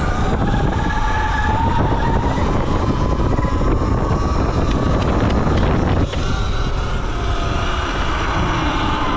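Electric dirt bike being ridden: the motor's whine rises over the first couple of seconds and then holds steady, over tyre rumble and wind buffeting the microphone. The level drops briefly about six seconds in, as if the throttle eases.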